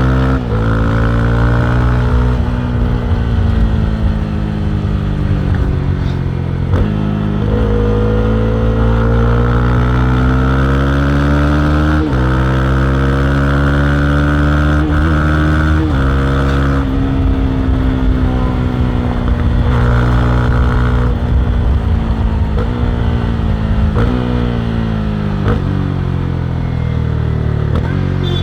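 Honda CB300R's single-cylinder engine running under way, its pitch climbing and easing off several times, with brief breaks every few seconds.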